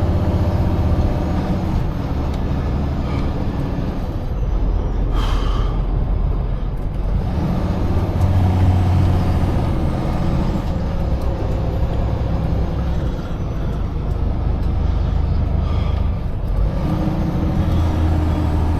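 Semi truck running down the road at night: steady low diesel engine drone with road noise, and a brief hiss about five seconds in.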